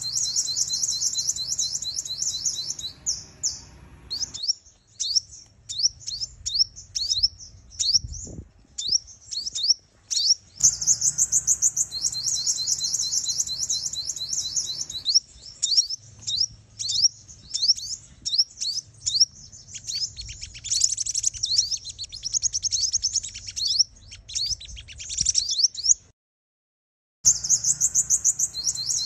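Female sunbird calls used as a trapping lure: long runs of rapid, high-pitched chirping trills with scattered single sharp chirps between them. They break off for about a second near the end, then the same trill starts again.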